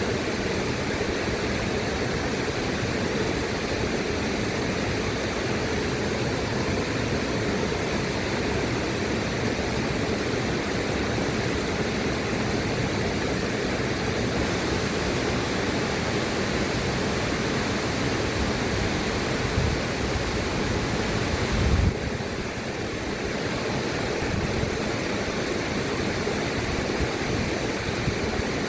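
A river's flowing water rushing steadily, an even noise with no pauses. About three-quarters of the way through there is a short low thump, and the rush then drops a little in level and changes its character for a moment.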